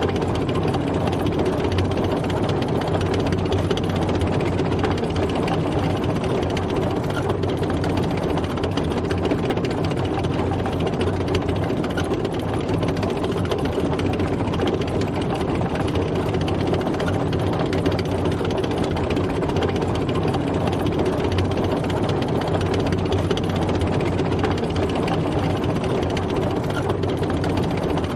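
Tank engine running steadily as the tank drives, a heavy, even mechanical rumble with a fast rattling texture that does not change.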